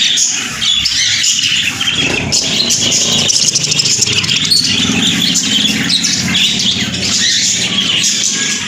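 Budgerigars chattering and chirping. A motor vehicle's engine runs underneath from about two seconds in until near the end.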